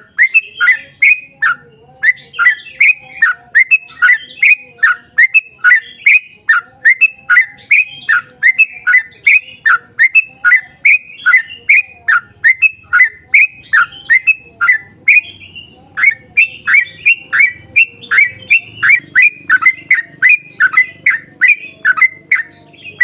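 Yellow-vented bulbul (trucuk) singing a long, fast run of short, downward-slurred notes, about three a second, with one brief pause about two-thirds of the way through.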